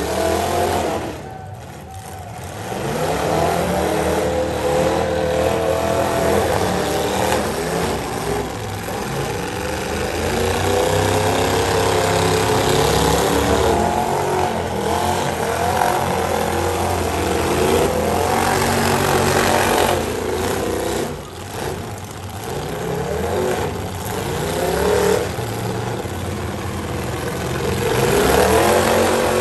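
Several demolition derby cars' engines revving hard, their pitch rising and falling over and over. The level drops briefly about two seconds in and again around twenty-one seconds.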